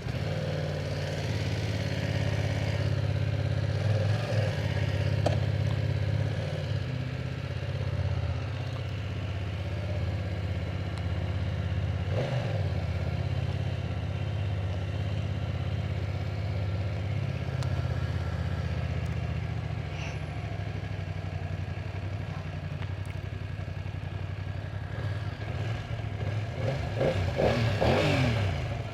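A BMW F900R's 895cc parallel-twin engine running under way on a ride, steady for most of the time, with a brief pitch change about twelve seconds in and the revs climbing near the end.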